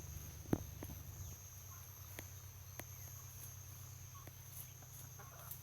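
Quiet outdoor ambience: a steady high-pitched insect drone over a low hum, with a few faint scattered clicks.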